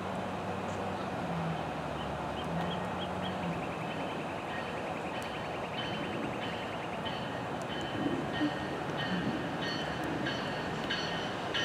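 NJ Transit commuter train approaching in the distance, heard as a steady rumble, with high clicking and ticking along the rails that comes more often in the second half.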